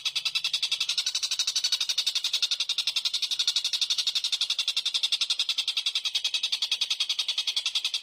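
A small songbird's rapid, steady rattling trill, high-pitched, about ten even pulses a second, repeated without a break.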